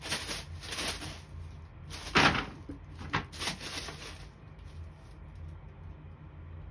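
Paper rustling and crinkling in a few quick bursts as a cat pounces on and bats at it, the loudest about two seconds in, then quieter.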